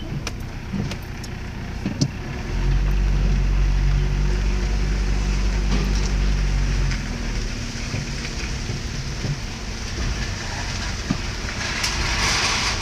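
Pickup truck engine pulling forward under load for a few seconds, louder with a steady pitch, then running more quietly at low speed. A hiss rises near the end.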